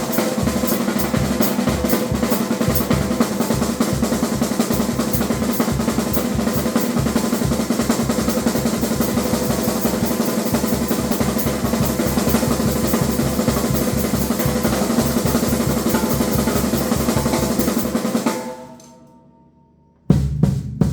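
Drum kit played in a solo, with fast, dense strokes and rolls. About 18 s in the playing dies away, and a few sharp hits come near the end.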